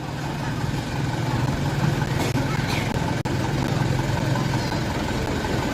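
Truck engine running steadily with a low hum, amid road and traffic noise.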